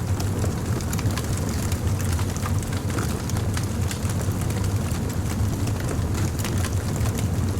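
Fire crackling, with frequent small sharp pops over a steady low rumble.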